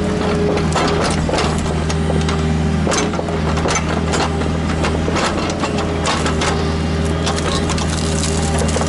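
Kubota KX121-3 mini excavator's diesel engine running steadily under load, with many sharp cracks and knocks of wood and roots breaking as the machine works at the stumps.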